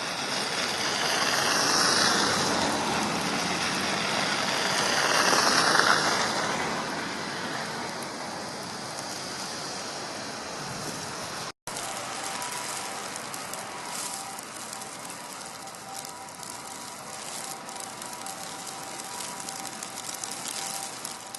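Blizzard wind blowing in gusts with a rain-like hiss, swelling twice in the first six seconds. After an abrupt cut it settles into a steadier, quieter hiss with a faint steady hum.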